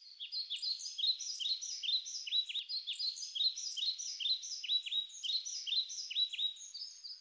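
Small birds chirping: a steady run of short, quick chirps that each slide downward, about three a second.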